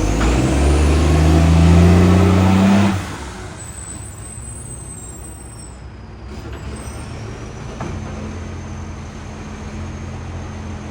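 Garbage truck's diesel engine revving hard, made much louder by a leaking exhaust pipe: the pitch climbs for about three seconds, then the revs drop suddenly and the engine settles to a low idle.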